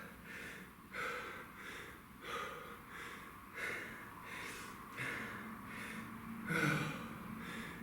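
A man breathing hard through the mouth, winded after a kettlebell set, with a heavy breath roughly every second.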